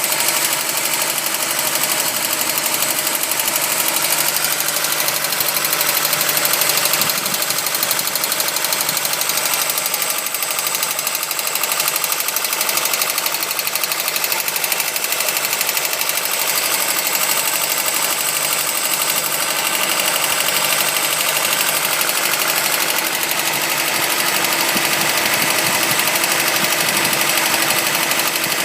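Volkswagen Golf Mk1 engine running steadily with a fast, continuous rattle: the water pump pulley is wobbling and knocking against the pulley cover.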